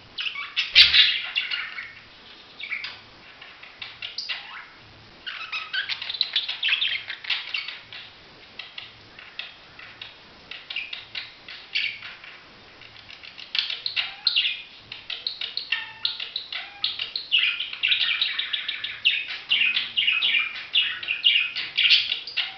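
Budgerigar chattering and warbling: runs of quick, high chirps broken by short pauses, with a sharp click about a second in.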